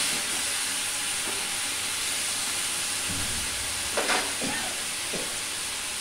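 Chopped taro plant frying in oil in a metal kadai: a steady sizzle, with a spatula stirring through the pieces at first. About four seconds in, a couple of sharp metal clinks as the utensils are handled.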